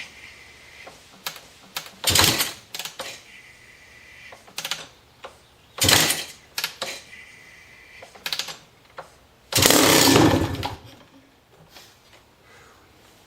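A 1993 Maico 500 two-stroke single being kicked over: three loud bursts about two, six and ten seconds in, the last lasting about a second, with lighter clatter between. The engine does not catch and run.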